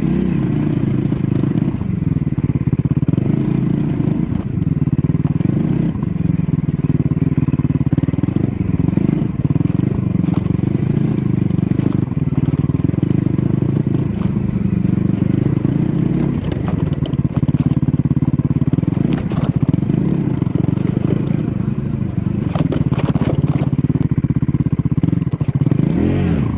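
Triumph Scrambler 400X's single-cylinder engine running through its stock exhaust, its pitch repeatedly rising and falling as the throttle is opened and closed while riding off-road. Short knocks and clatter come through about three-quarters of the way in.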